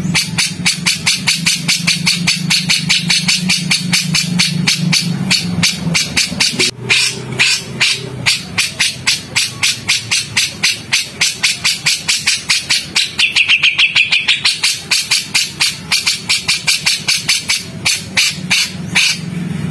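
Songbird giving rapid, harsh, repeated call notes, about four to five a second: the rough 'tembakan' chatter used as master audio for training magpie-robins. A low hum sits under the first six seconds.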